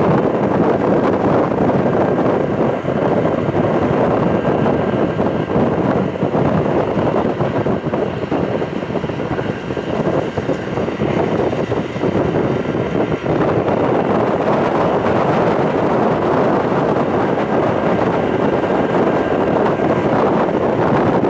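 Steady rush of wind over the microphone mixed with the rumble of the moving Amtrak California Zephyr passenger train, heard from an open window on the side of the train.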